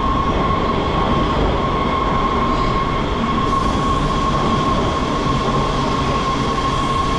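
City Metro rail train pulling into the station platform: a loud, steady running noise with a steady high-pitched squeal held through it.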